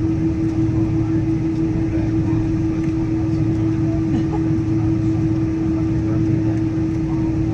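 Steady cabin drone inside a Boeing 777-200ER taxiing to the gate: a constant hum over a low rumble, with no change in pitch or level.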